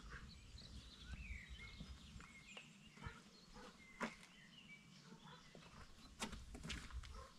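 Near silence with faint bird chirps scattered throughout and a few soft clicks.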